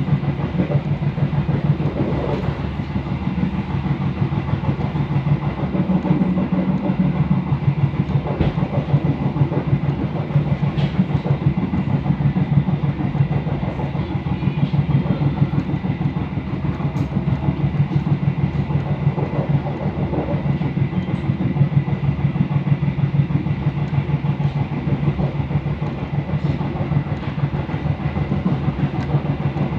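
Passenger train running at speed: a steady rumble of wheels on rail with a fast flutter and an occasional sharp knock.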